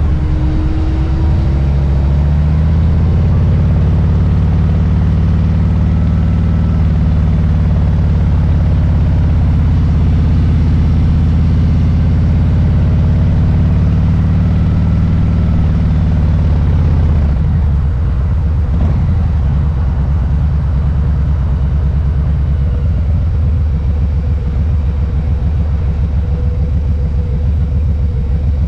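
Harley-Davidson Low Rider S's Milwaukee-Eight V-twin running at a steady speed, then, a little past halfway, dropping back to a slower, lumpier rumble with the individual firing pulses showing.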